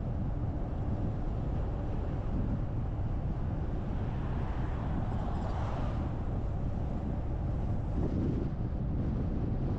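Steady road and wind noise from a car driving, a low rumble, with a swell of hiss about halfway through.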